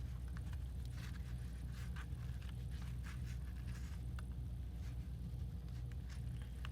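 Light rustles, taps and scrapes of hands handling paper and packing materials, over a steady low hum.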